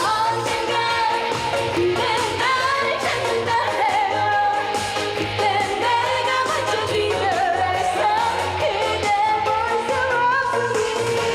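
A woman singing a Korean trot song live, with vibrato on held notes, over a loud amplified pop backing track.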